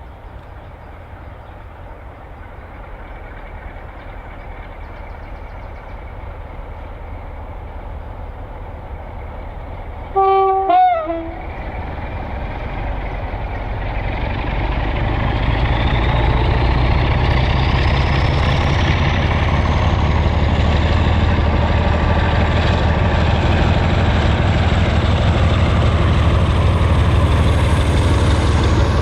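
Heritage diesel locomotive coming closer and growing louder, sounding its horn once for about a second roughly ten seconds in. After the horn the engine runs loud and steady, with a thin whine that climbs slowly in pitch.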